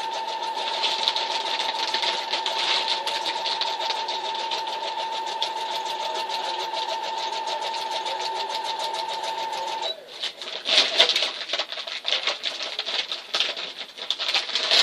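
Electric sewing machine running steadily, stitching through a folded edge of woven dog food bag material, then stopping about ten seconds in. Irregular handling noises follow.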